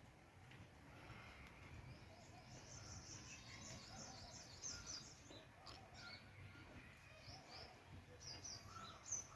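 Faint bird chirping: many short, high chirps that repeat unevenly over a low, quiet background hum.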